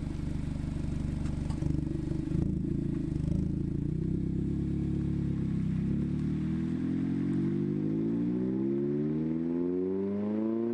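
Mazda ND MX-5 Miata's inline-four through an AIMGAIN valved aftermarket exhaust, running at steady low revs, then revving up smoothly over the last four seconds.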